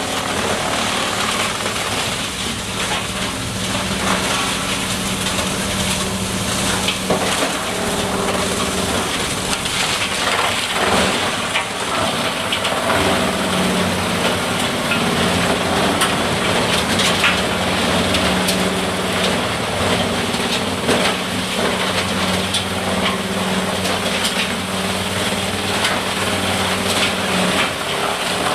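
Engine-driven wood chipper running steadily while crunching and splintering wood, irregular cracks and snaps over a constant engine hum.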